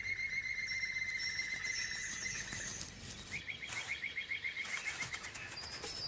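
Several birds singing at once: high, fast trills and chirps overlapping, one rapid trill taking over about halfway through.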